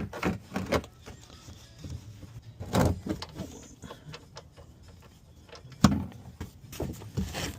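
Scattered clicks and knocks of tools and car parts being handled during an oil change, with louder knocks about three and six seconds in.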